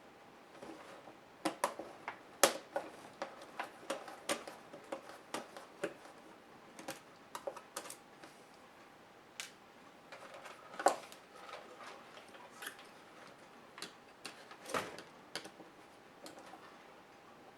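Irregular small clicks and taps of plastic and metal parts being handled, pried and set down while a Compaq HP 6720S laptop is taken apart by hand, with a sharper knock about two seconds in and another near eleven seconds.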